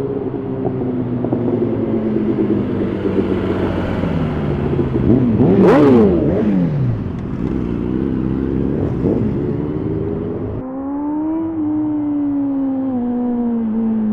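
Superbike engines revving and passing, their pitch climbing and falling several times, with a sharp crack at the loudest moment about halfway through. After a sudden cut, a single engine note slowly falls in pitch.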